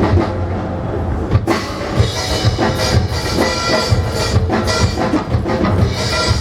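Live percussion ensemble with a drum kit playing a driving rhythm of low bass-drum beats and dense strokes. About a second and a half in, a crash comes in, and a bright metallic shimmer rings on over the drumming.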